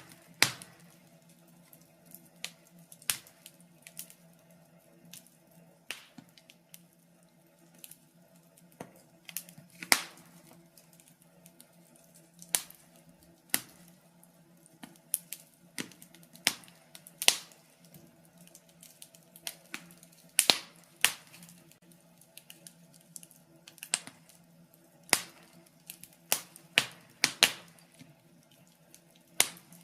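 Wood fire crackling: sharp, irregular pops and snaps, several every few seconds, over a faint steady low hum.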